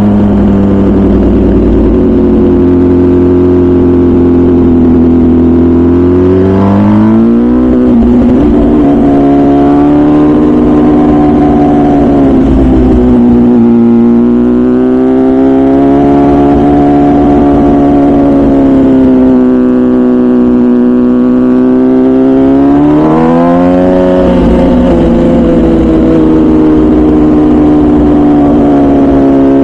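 MV Agusta Brutale 1000RR's 998cc inline-four engine through its full titanium Arrow exhaust, running at low revs while ridden slowly. The pitch climbs sharply about seven seconds in, swells and eases over the next stretch, and climbs again a little after twenty seconds.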